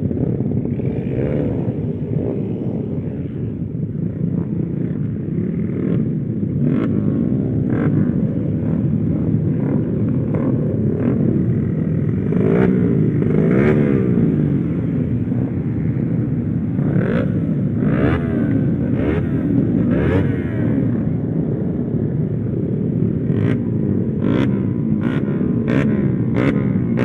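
Small motorcycle engines revving hard on a run. Their pitch rises and falls with throttle and gear changes, and several engines' whines cross over one another. A quick run of sharp clicks comes near the end.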